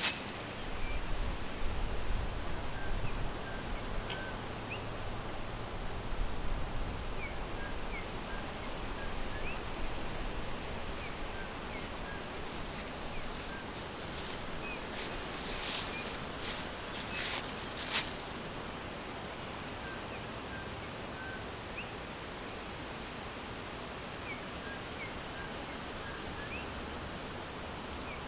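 Forest ambience: a steady hiss of leaves or wind with faint, short bird chirps scattered throughout. About fifteen to eighteen seconds in comes a brief rustling, ending in one sharp click.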